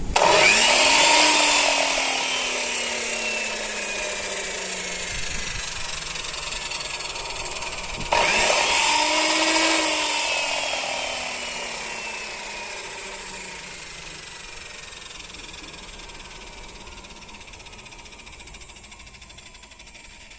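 Makita 4110B 10-inch cutter run with no load, switched on twice. Each time it spins up to full speed within about a second, then winds down slowly with a falling whine. The second start comes about eight seconds in, while the blade is still coasting.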